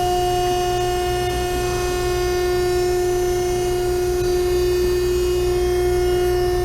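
Industrial grocery-store baler's hydraulic pump running with a steady, even whining hum.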